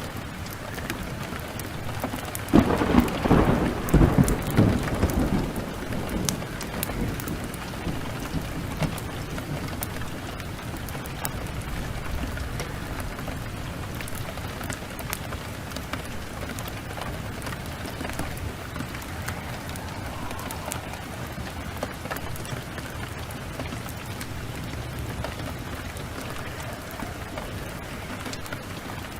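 Heavy rain falling steadily, with a loud roll of thunder about two and a half seconds in that rumbles for a few seconds and fades back into the rain.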